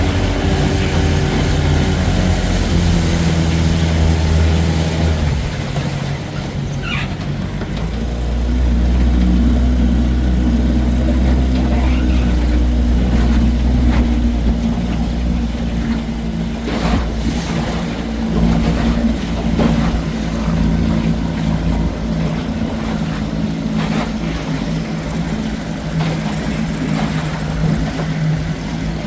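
Vintage Johnson 20 hp outboard motor running under way, a steady engine drone whose note changes about six to eight seconds in, then holds.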